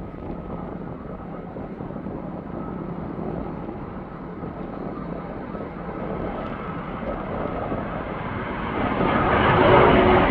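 Airbus A380's four Rolls-Royce Trent 900 jet engines at takeoff power, a steady roar that grows louder as the superjumbo comes closer, most steeply near the end.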